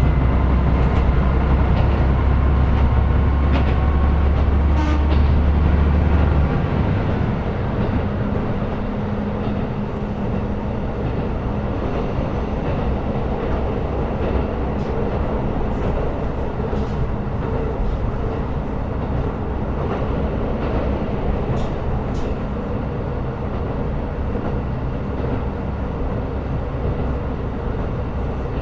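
Running sound inside a KiHa 125 diesel railcar. The engine's deep drone under power cuts off about six seconds in, leaving the quieter steady noise of the car rolling along the rails with occasional light clicks.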